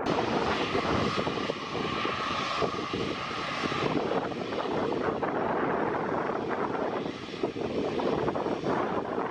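Airbus A320 jet engines running at high power on departure: a steady loud rush, with a high whine over it for the first few seconds.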